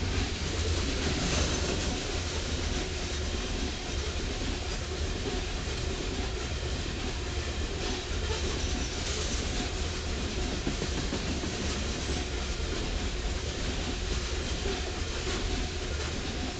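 Loaded coal hopper cars of a freight train rolling past, a steady deep noise of steel wheels running on the rails.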